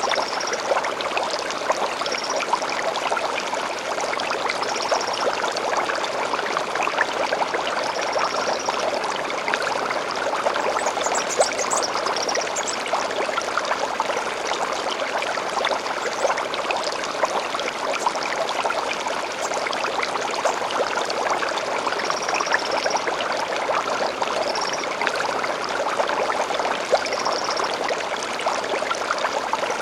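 Small stream flowing steadily, with short high bird calls every few seconds and a quick run of chirps about eleven seconds in.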